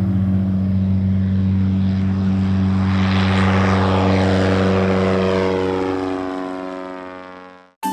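Piston-engine propeller airplane flying past: the engine and prop noise swells to a peak about three seconds in, then drops in pitch and fades away as it recedes.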